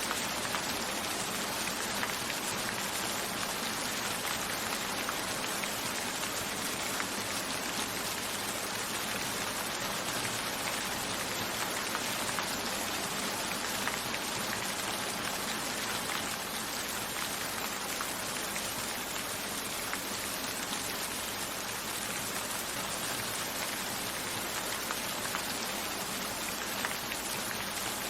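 Steady rain falling, a dense even hiss with many fine drop patters, including drops on a window pane.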